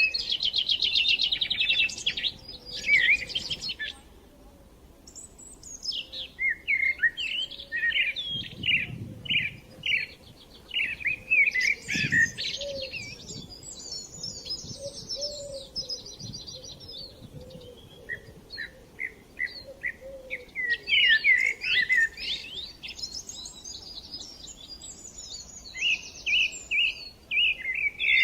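Small birds chirping and twittering in quick, overlapping trills, with a brief lull about four seconds in.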